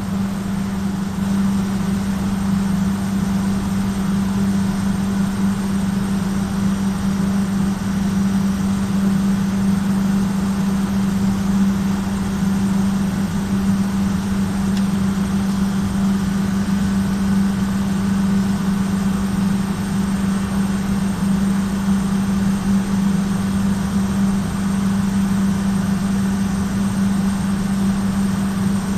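Main electric motor of a machine running steadily with a loud hum and a rough mechanical noise underneath, the abnormal noise that marks it as faulty.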